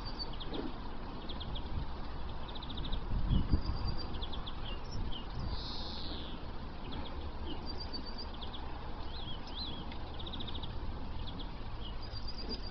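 Small birds chirping in short calls and quick trills, over a steady low background rumble.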